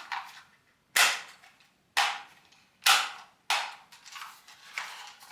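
Sharp plastic clicks, about one a second, from a vacuum cleaner's floor nozzle as its brush-selector button is pressed and released, raising and lowering the brush strip. Smaller, fainter clicks follow near the end.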